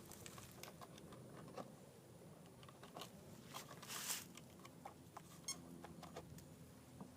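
Near silence: faint background with scattered small clicks and a brief rustle about four seconds in.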